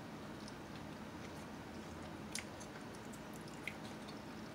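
A person quietly chewing a mouthful of sub sandwich, with a few faint clicks, the clearest about two and a half seconds in, over a low steady hum.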